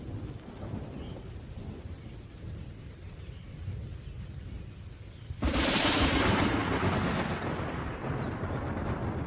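Thunder rumbling low and distant, then a sudden sharp thunderclap about five and a half seconds in that rolls away slowly.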